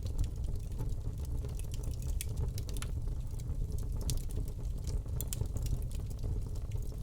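Wood fire in a fireplace crackling: frequent short, sharp pops and snaps over a steady low rumble of burning.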